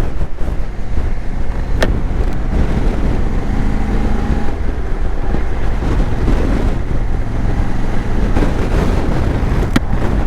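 Motorcycle engine running at a steady cruise under heavy wind rush on the microphone. Two sharp clicks, about two seconds in and near the end.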